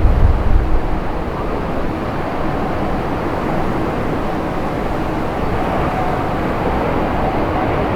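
Jet airliner engines running with a steady, loud roar, and gusts of wind buffeting the microphone in the first second.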